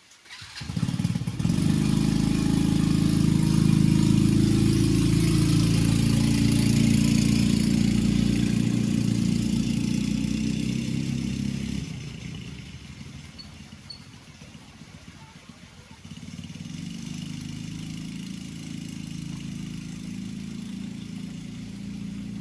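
A motor vehicle's engine running close by. It starts abruptly about half a second in, eases off after about twelve seconds and picks up again, quieter, a few seconds later, over a steady hiss of rain.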